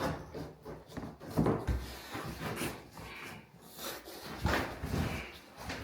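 Vinyl flooring planks being handled and fitted: a few short knocks between scraping and rubbing sounds.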